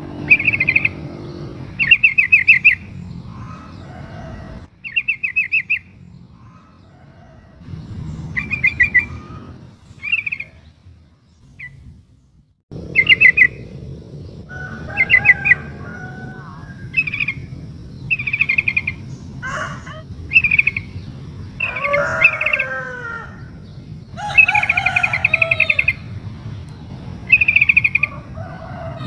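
Yellow-vented bulbul (trucukan) calling: short, fast chattering trills at about the same high pitch, repeated every second or two, with lower gliding bird notes in the middle. This is the female's call that draws males to answer.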